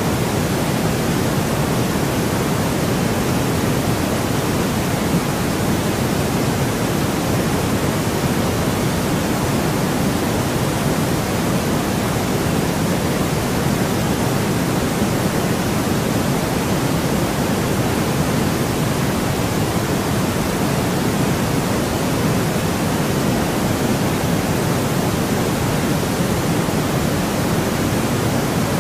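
Steady, unchanging white noise: an even hiss with no events in it, fuller in the lower middle than in the highs.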